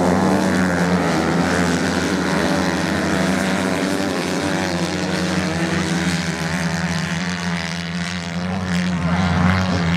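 Racing motorcycle engines running on a sand course, a steady drone whose pitch wavers up and down as the bikes rev, swelling slightly near the end.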